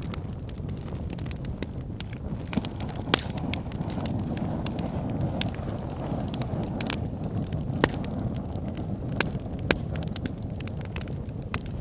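Wood bonfire burning with a steady low rumble of flame and scattered sharp crackles and pops.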